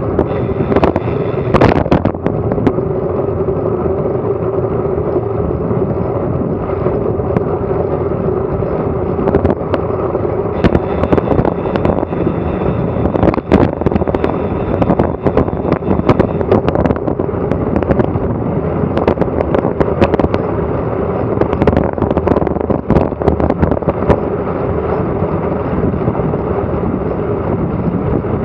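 Wind rushing over a Garmin Virb Elite action camera's microphone on a fast bicycle descent, with a steady hum under it and scattered clicks and knocks from the bike and mount over the road.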